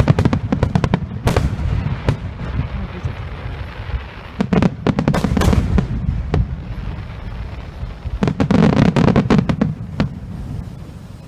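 Fireworks display: rapid volleys of bursting shells and crackles, coming in three dense clusters a few seconds apart over a low rumble, then dying down near the end.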